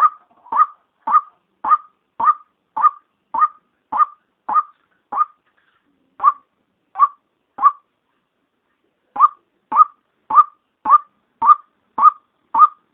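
Female white-breasted waterhen calling: a string of short single notes, about two a second, slowing to three spaced notes a little past the middle, a pause, then the quicker series again near the end. It is the lure call played to draw waterhens in.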